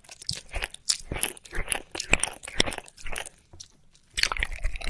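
Close ASMR ear-licking mouth sounds: wet licking and smacking clicks in quick, irregular runs, with a brief pause a little before the end.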